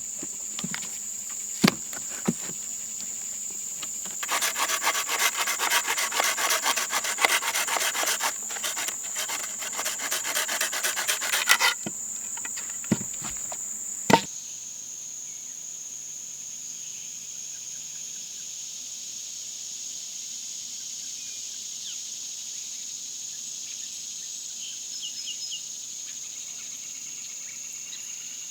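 A hand saw cutting through wood in quick back-and-forth strokes for about seven seconds, with a few sharp knocks before and after. Crickets trill steadily in the background.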